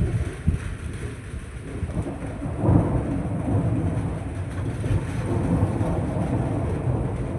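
Thunder: a short crack, then a low rumble that swells about two and a half seconds in and rolls on.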